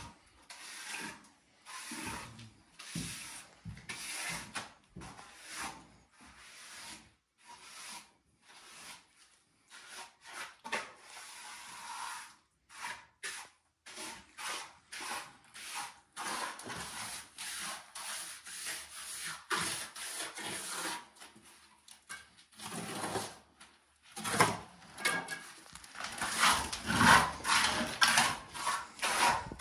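Repeated scraping strokes of a hand tool rubbed over a rough, hard surface, in irregular strokes with short gaps between them, growing louder about three-quarters of the way through.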